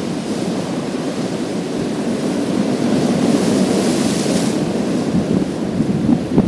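Sea waves breaking and washing over a pebble beach, a continuous rushing surf with a hissing wash that swells about three seconds in and fades by about four and a half seconds.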